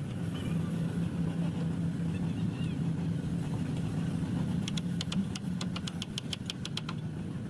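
A steady low engine-like drone, with a rapid run of sharp clicks, about six a second, for a couple of seconds in the second half.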